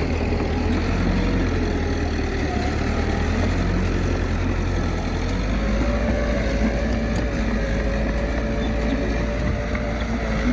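Komatsu D21A bulldozer's diesel engine running steadily under load, its note dipping in pitch about a second in and climbing back a little after five seconds as it pushes.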